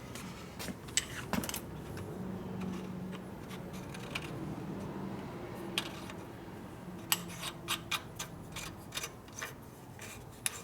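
Small metal parts clinking and tapping against each other, in scattered clicks with a cluster near the end, over a low steady hum.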